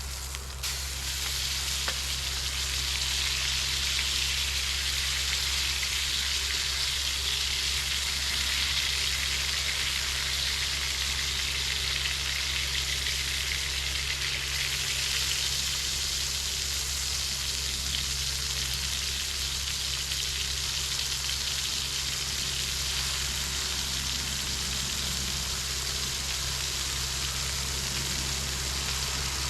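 A steady crackling sizzle, like food frying in a pan, that swells up just after a faint click about half a second in and then holds even, over a constant low hum.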